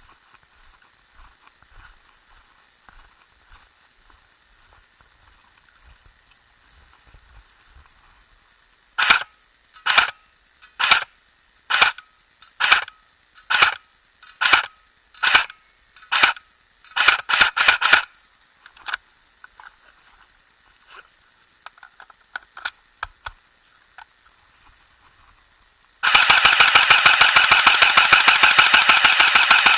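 SGR-12 airsoft electric shotgun (AEG) firing, each shot throwing three BBs: about nine single shots a little under a second apart, then a quick string of several, and near the end a steady full-auto burst of about four seconds.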